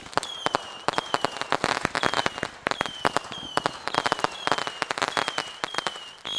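Fireworks going off in a rapid, irregular series of sharp bangs and crackles. A short, high, falling whistle comes back every half second or so among them.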